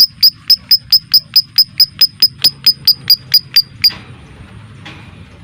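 Lovebird's 'ngetik' call: a fast, even run of sharp high chips, about four and a half a second, that stops about four seconds in, followed by a few faint scattered calls.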